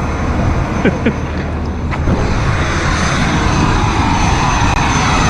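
A steady engine drone, with a few short clicks about a second in and again around two seconds.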